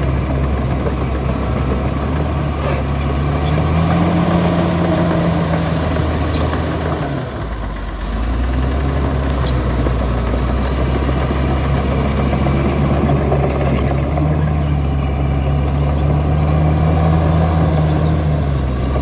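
Heavy diesel engine of earthmoving equipment running steadily. Its pitch rises and falls as the load changes, and it dips briefly about halfway through.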